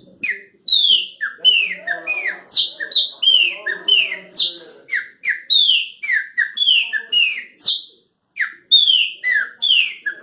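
A man's whistled imitation of the song of the pássaro-preto (chopim, the Brazilian blackbird): a rapid string of short notes, each falling sharply in pitch, about three a second, with a brief break near the end.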